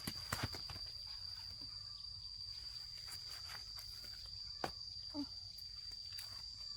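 Insect chorus in the field, a steady, unbroken high-pitched drone. Over it come a few sharp clicks or knocks near the start and again past the middle.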